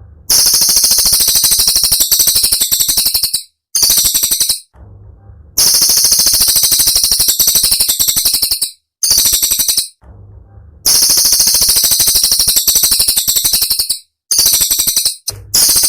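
Cililin songbird singing sharp, high-pitched, very rapid rattling trills in bursts of about three seconds, separated by short pauses.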